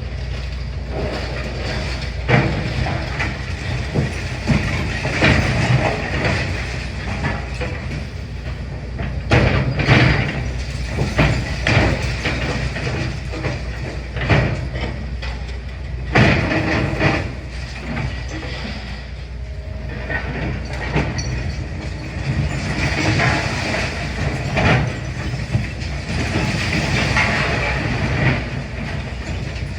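Demolition excavator's diesel engine running steadily, with repeated irregular crunches, knocks and clatters of masonry and debris as the building is broken up.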